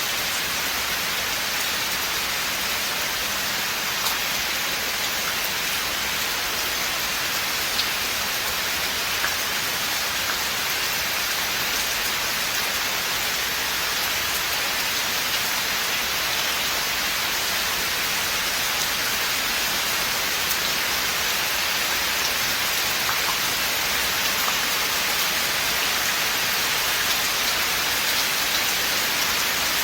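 Steady rain falling in a forest, a dense even hiss of drops on leaves and ground, with a few sharper single drops standing out now and then.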